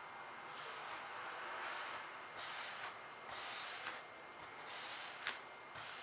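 Paintbrush strokes brushing across the painting surface: a series of short scratchy swishes about once a second, with one sharp tap near the end.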